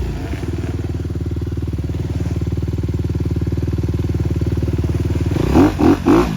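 Motorbike engine idling steadily, then blipped with about five quick throttle blips near the end.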